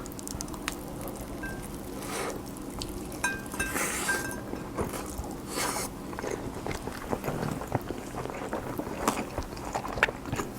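Close-miked eating of kimchi fried rice: wet chewing and mouth sounds with many small clicks, and a few brief clinks of a spoon against the dish early on.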